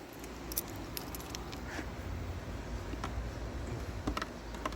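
Low rumble of handling noise on a hand-held phone's microphone, with a few light clicks and taps scattered through it.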